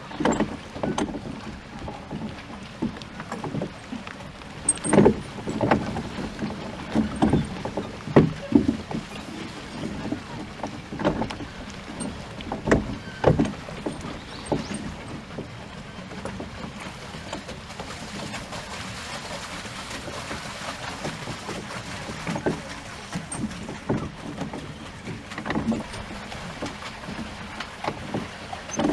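Water slapping and splashing against the bow of a rowboat moving across a pond, in irregular short slaps over a steady lapping.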